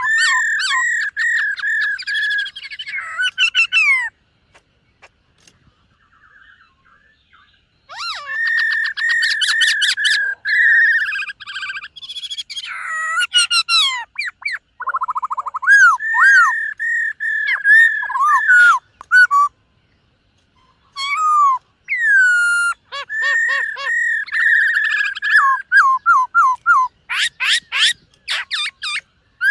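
Black-throated laughingthrush singing in loud bursts of rapid whistled notes and quick repeated chirps, falling silent twice for a few seconds between phrases.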